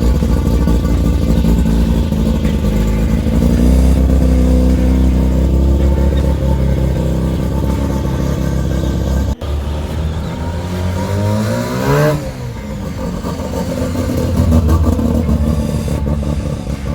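A car engine running steadily, then revved once: the pitch climbs to a peak about twelve seconds in and drops back. There is a brief break in the sound shortly before the rev.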